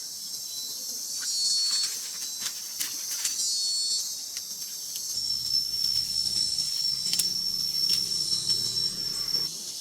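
Shrill insect chorus, a high hiss with thin whistling tones, joined about five seconds in by one steady high-pitched drone that stops near the end; scattered light clicks throughout.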